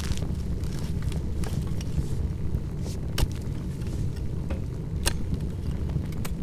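Bonfire burning: a steady low rumble under irregular sharp crackles and pops, about one a second.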